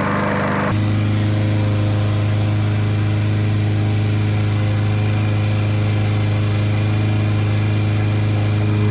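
The petrol engine of a Mountfield Empress 16 lawn mower running steadily, left running to burn off old oil. About a second in, the rushing noise drops away and a steadier low hum is left.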